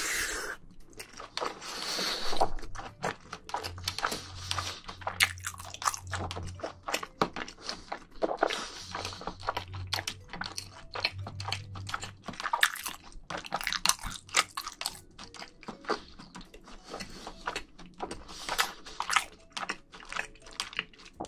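Close-miked chewing of a big mouthful of jjajangmyeon, black bean sauce noodles with meat: wet mouth sounds made of many quick, irregular smacks and clicks.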